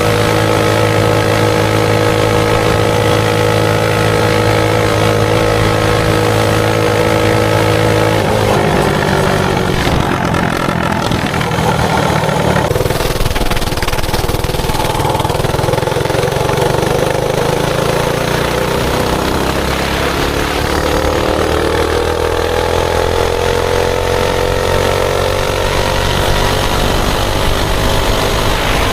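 Mini bike's Predator 224cc single-cylinder four-stroke engine running at a steady pitch. About eight seconds in the pitch drops and the sound turns rougher and noisier, then in the last several seconds the engine pitch climbs steadily as the bike speeds up.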